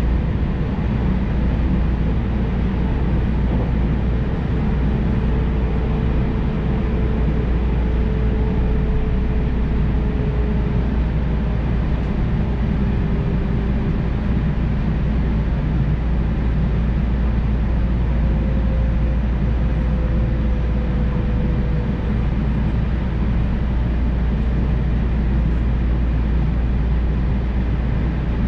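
Electric commuter train running at speed, heard inside the carriage: a steady low rumble of wheels on rail with a faint tone that slowly falls in pitch, twice.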